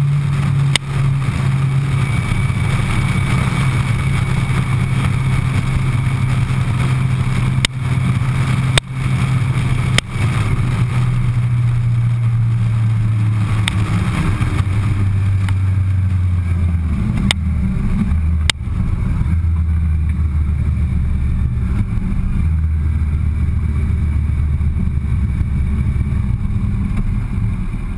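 Suzuki Hayabusa inline-four motorcycle engine running at road speed, a steady low hum whose revs ease down through the middle of the stretch, with a few short clicks now and then.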